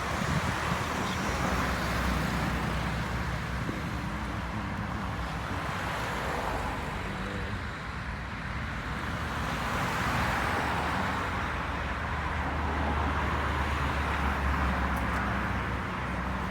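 Steady rushing outdoor noise with a low rumble underneath, swelling and easing twice.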